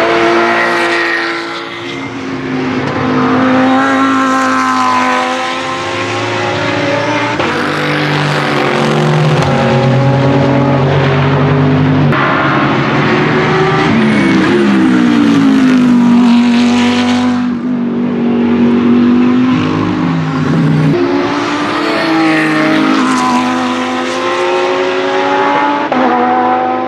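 GT3 race cars running at speed, among them the Lamborghini Huracán GT3 Evo's 5.2-litre V10. The engine notes rise and fall in pitch as the cars pass and change speed, often with several engines heard at once.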